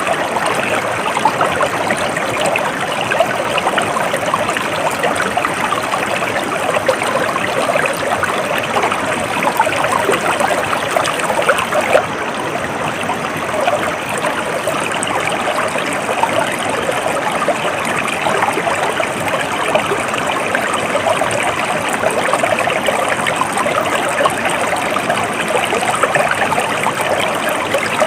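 Water flowing steadily in a stream, with a constant rushing and trickling.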